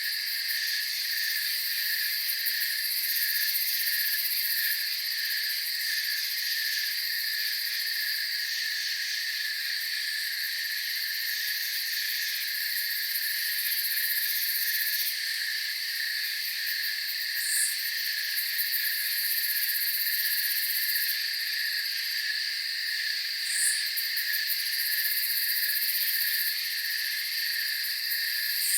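Night insect chorus of crickets trilling steadily in several overlapping high pitches, one of them pulsing. Three short, sharp high chirps stand out in the second half.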